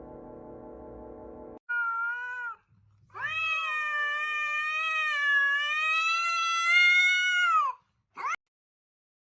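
A domestic cat meowing: one short meow, then one long drawn-out meow lasting several seconds, then a brief rising squeak near the end. Music plays at first and stops abruptly.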